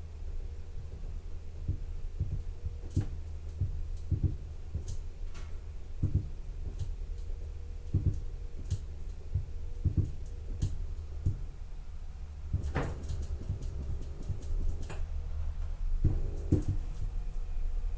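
Toshiba AW-7D9 top-loading washing machine in the early part of its spin cycle: its direct-drive motor gives a steady low hum with a faint tone, under irregular soft knocks from the tub roughly once a second. A cluster of clicks comes about 13 s in, and further higher motor tones join about 16 s in.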